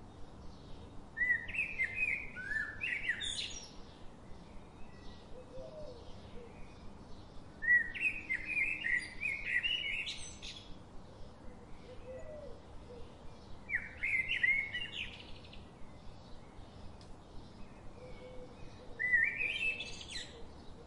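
A songbird singing four short phrases of quick, varied chirps, about one every six seconds, over a faint, quick, even ticking.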